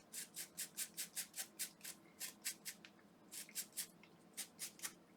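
Short scratchy scrubbing strokes, about five a second, in runs broken by short pauses: a small tool working white liquid-damage residue off the area around a screw in an electric toothbrush.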